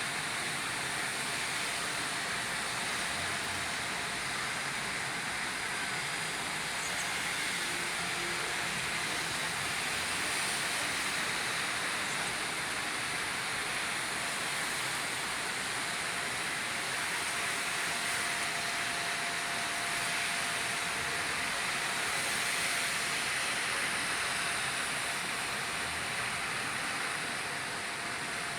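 Steady rain falling: a dense, even hiss that holds at one level throughout.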